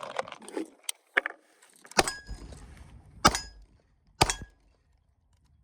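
Three pistol shots about a second apart, each followed by a short metallic ring from a struck steel target.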